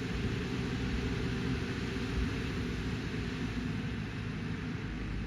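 A heavy vehicle's diesel engine running steadily, with an even low hum.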